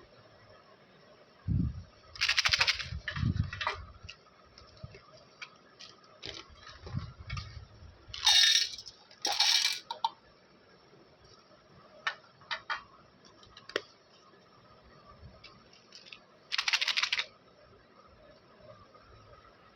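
Plastic candy wrappers crinkling and being torn open in several short bursts, with light taps and small clicks of candies being handled.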